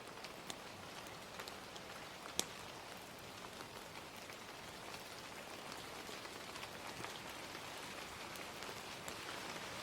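Ambient recording of gentle rain mixed with a crackling fire: a steady, even hiss of rain with scattered sharp pops and crackles, one louder pop about two and a half seconds in.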